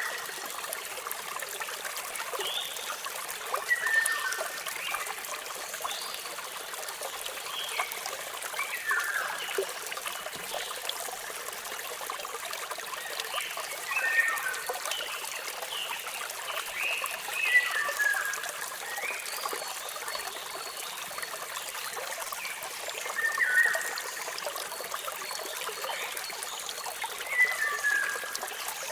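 Steady running water from a waterfall, with a bird giving short falling chirps over it every four to five seconds.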